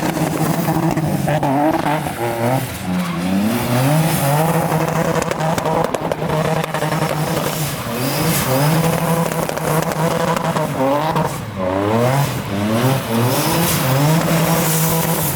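Car engine revving hard, its pitch climbing and dropping back again and again.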